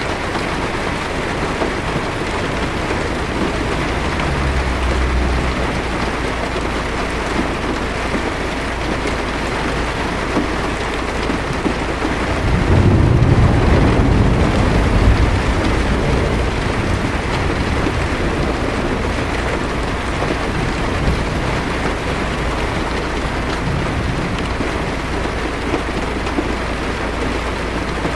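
Heavy rain drumming steadily on a car's roof and windshield, heard from inside. A low roll of thunder swells about halfway through and fades over a few seconds, with a fainter rumble earlier.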